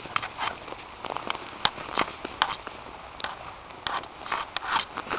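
Snow crunching underfoot in irregular crackles and scrapes.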